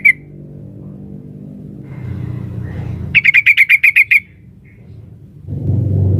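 Yellow-vented bulbul (trucukan), said to be a female calling a male, giving one rapid chattering burst of about ten clipped notes in a little over a second, about three seconds in. A low steady rumble sits under it.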